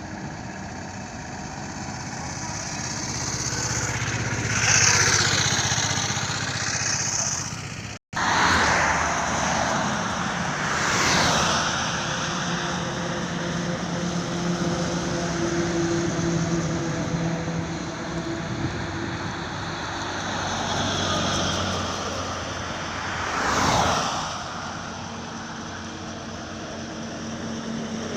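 Highway traffic: vehicles pass one after another, each a whoosh that swells and fades over continuous road noise, with engine hum from a heavier vehicle partway through and a sharp, quick pass near the end. The sound cuts out for an instant about eight seconds in.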